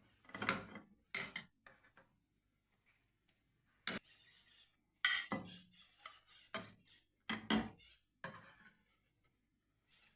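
A metal kitchen utensil clinking and scraping against a pan or dish, about seven separate clatters with short pauses between, one sharp click about four seconds in.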